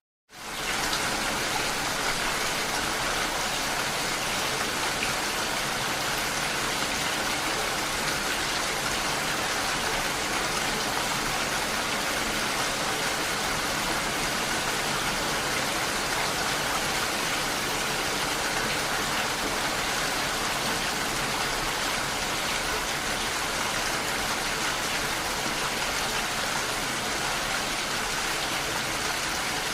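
Steady rain striking window glass, a constant even patter. It cuts out for a split second right at the start and comes straight back in.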